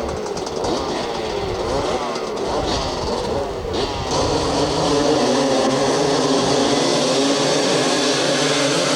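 A pack of 250 cc two-stroke motocross bikes revving, several engines rising and falling in pitch together; about four seconds in the sound turns louder and steadier as the engines hold high revs.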